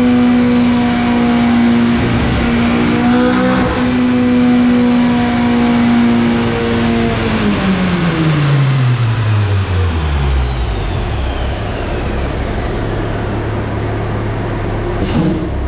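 Turbocharged Honda K20Z3 four-cylinder in a 2008 Civic Si running on a chassis dyno. It holds steady at high revs with two brief dips, then the revs fall away over a few seconds and it settles to a lower steady running tone. There is a short sharp sound near the end.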